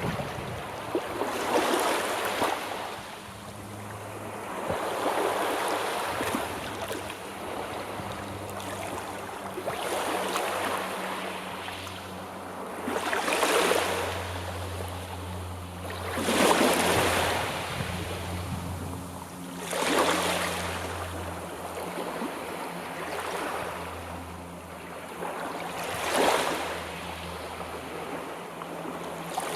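Sea waves breaking and washing ashore, surging about every three to four seconds, with the biggest wave a little past halfway.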